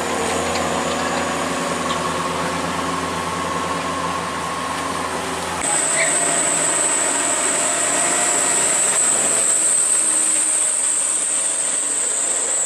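Heavy truck engine running steadily. About halfway through it cuts off suddenly and is replaced by a high-pitched steady whine over road noise.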